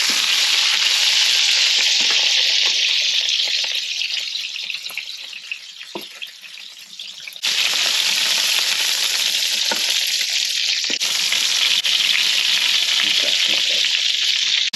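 Chicken cutlets sizzling as they fry in olive oil and butter in a skillet. The sizzle drops away about a third of the way in, then comes back suddenly at full strength about halfway through, with a few light taps.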